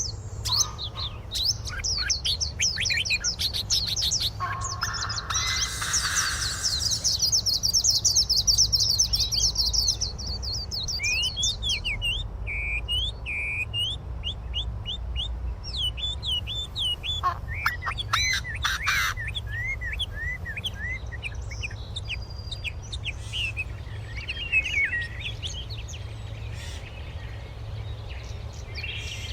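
Birds chirping and singing: many quick high-pitched chirps, fast trills and short whistled notes, densest in the first ten seconds, over a steady low hum.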